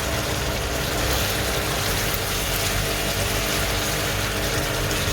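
Chicken pieces sizzling steadily as they fry in hot oil in a pan, the water having cooked off so the pieces crisp.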